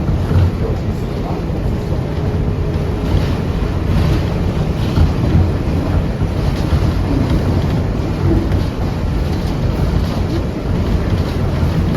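NYC Subway R142A car in motion between stations, heard from inside: a steady, loud rumble of wheels on rail and running gear.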